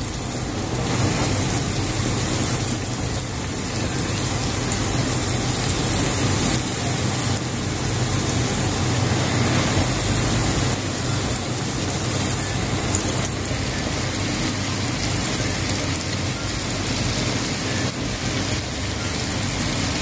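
Flour-breaded chicken breast fillets sizzling steadily in hot oil in a frying pan over medium heat.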